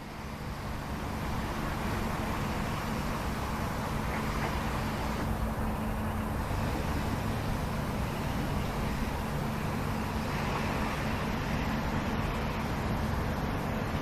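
EP09 electric locomotive and its train running through the station: a steady rolling rumble with a low steady hum, building over the first second or two.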